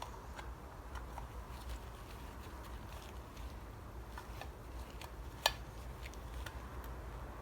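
Faint clicks and taps of hand tools on small metal bolts of an engine casing, with one sharp metallic click about five and a half seconds in, over a low steady hum.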